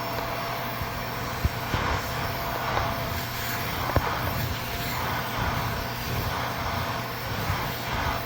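Bissell Little Green Multiclean portable carpet cleaner running, its suction motor giving a steady hum and whine, with the rush of air and water swelling and fading every second or two as the hose tool is worked over the surface, and a few small clicks.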